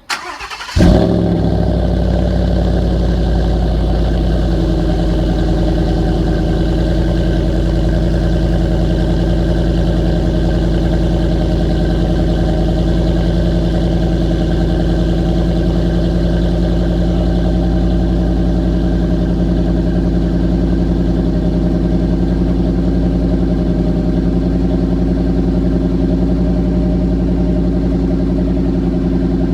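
2016 Ford F-150's 5.0 V8 through an MBRP 3-inch aluminum single-side dual-outlet cat-back exhaust starting up: a brief crank, a flare of revs as it catches about a second in, then a steady idle.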